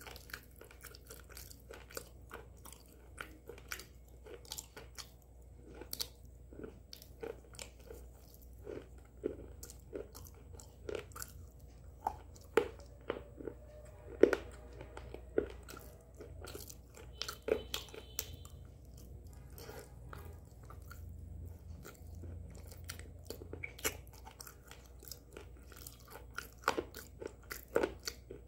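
A person biting and chewing a brittle white chalk-like stick: sharp, irregular crunches and crackles, sometimes several in quick succession.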